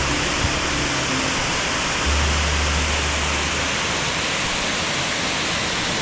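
Steady rushing roar of a waterfall, with soft, low held music notes under it.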